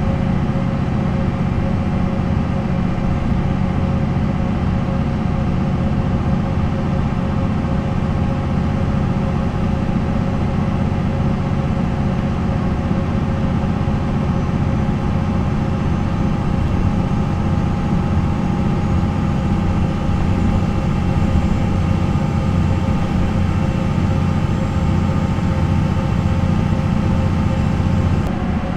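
MAN NL 263 city bus with a D28 diesel engine, running steadily with an even, unchanging engine note and no audible gear shifts.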